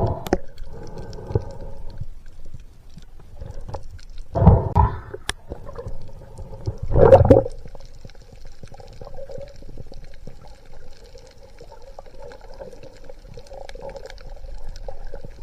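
Water heard from underwater: a few loud gushing surges of water or bubbles, at the start and about four and seven seconds in, over a steady low hum.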